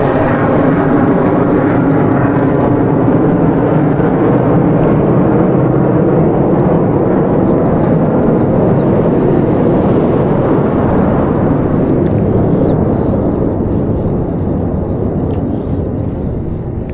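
Wind rushing over the camera microphone on a moving bicycle: a steady low rushing that eases off near the end.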